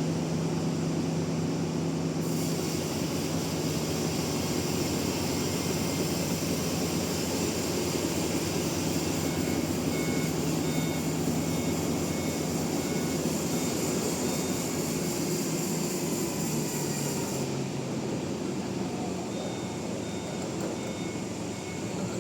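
Sawmill machinery running steadily with a low hum, joined by a high hiss that starts about two seconds in and cuts off sharply about seventeen seconds in.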